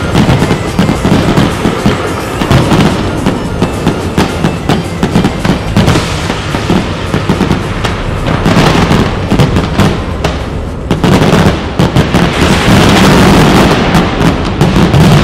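Fireworks display: a rapid, continuous stream of launches, bangs and crackle from aerial shells and ground-fired comets, growing denser and louder in the last few seconds.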